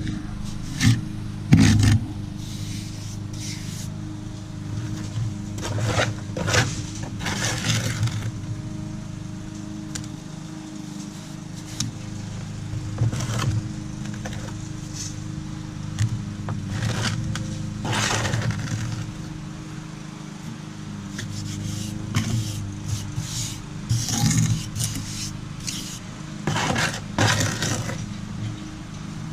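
Hand tool scraping and working fresh mortar on concrete steps in irregular strokes, some louder and longer than others. A steady low hum runs underneath.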